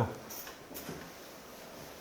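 Quiet room tone, with a couple of faint short noises in the first second.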